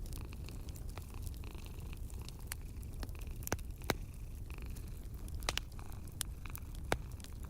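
Wood fire crackling, with sharp pops at irregular intervals, over a steady low purring of a cat.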